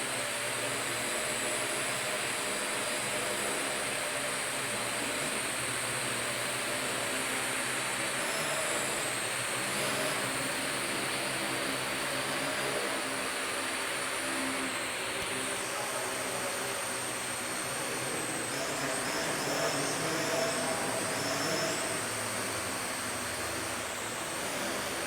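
Parrot AR.Drone 2.0 quadcopter in flight: its four electric motors and propellers make a steady whirring buzz, the pitch wavering slightly as it manoeuvres.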